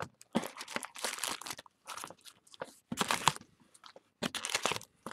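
Crinkling plastic wrap and cardboard packaging of a box of trading cards being handled and opened, in short irregular crackles.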